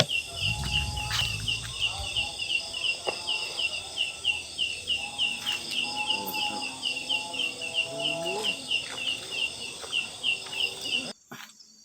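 An insect chirping in a fast, even rhythm of about four chirps a second over a high insect hiss. A brief low rumble comes in the first two seconds, and the sound cuts off suddenly near the end.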